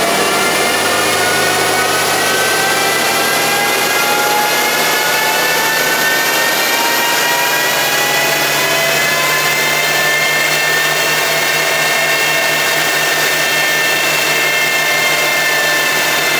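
Audi B9 S5's turbocharged 3.0-litre V6 at full throttle in fifth gear on a chassis dyno, running loud and steady. Its pitch climbs slowly as the revs build, then levels off near the end. The exhaust is stock apart from an aftermarket downpipe.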